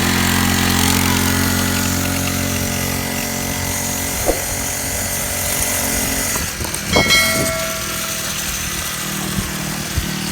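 Small engine of a mini dirt bike running steadily at idle, with a few short knocks and a brief squeal about seven seconds in.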